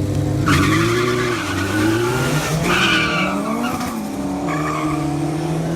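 Drag car doing a burnout: the engine revs up and down while the tyres squeal. The squeal starts about half a second in, then drops away and returns a few times.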